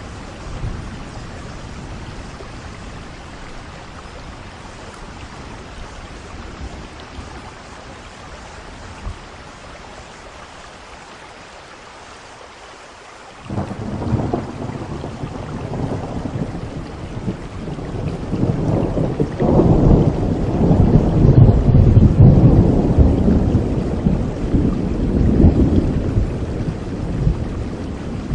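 Steady rain falling, then thunder breaking in suddenly about halfway through: a long rumble that builds, peaks and slowly dies away near the end.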